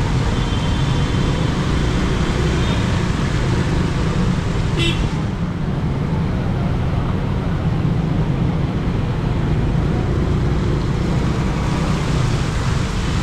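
Steady road traffic noise from passing vehicles, with a brief sharp chirp about five seconds in.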